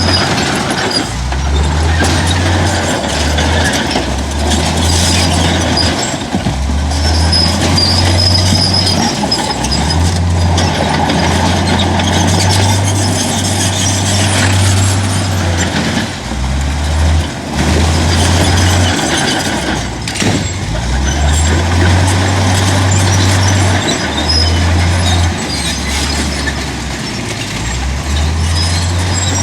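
Heavy diesel earthmoving machinery running under load, its engine note stepping up and down every second or two over a steady mechanical clatter.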